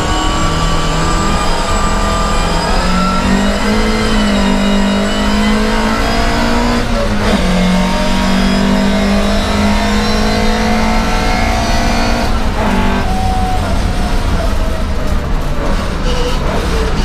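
Racing Volvo 544's four-cylinder engine at hard throttle, heard from inside the cockpit, revs climbing, dipping briefly about seven seconds in, then falling off about twelve seconds in.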